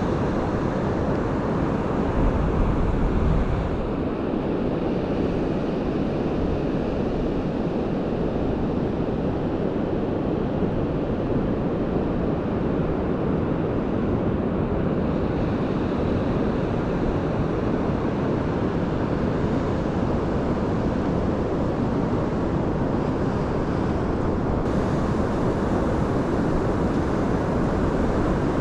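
Pacific Ocean surf breaking on the beach: a steady, continuous wash, with wind buffeting the microphone, strongest about two to four seconds in.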